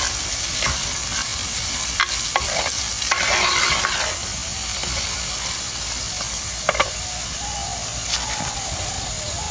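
Curry ingredients sizzling in hot oil in a cooking pot while a spoon stirs them, with scattered sharp clicks of the spoon against the pot.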